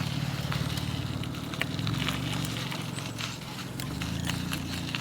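Bafang mid-drive e-bike motor humming low and steady under pedalling, with scattered clicks and rattles from the bike and tyres over the trail surface. The hum stops at the very end.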